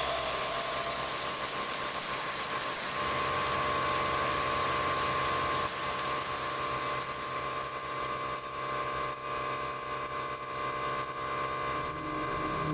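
A machine running steadily, with a constant hum over a hiss.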